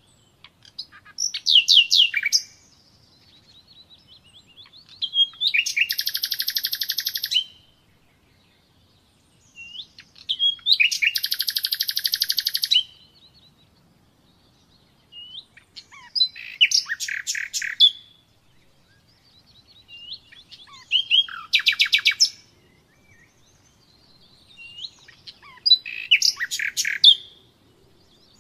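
A common nightingale singing six separate song phrases with short pauses between them. Some phrases are long, rapid trills of repeated notes, and thin whistled notes come in between.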